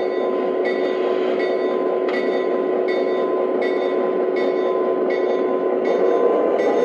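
Lionel SW8 switcher model locomotive running on its track, its onboard diesel engine sound effects humming steadily. A short click comes about every three-quarters of a second.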